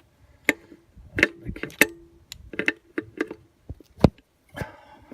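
Metal hand tools clinking and knocking: a socket, extension bar and wrench being handled and pulled off a glow plug. About seven sharp clinks at irregular intervals, some with a short metallic ring, the sharpest about four seconds in.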